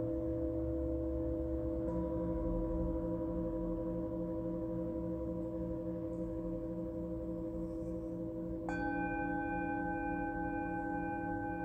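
Singing bowls ringing in long, overlapping tones with a slow pulsing beat. Another bowl is struck lightly about two seconds in, and a higher-pitched one more firmly near the end.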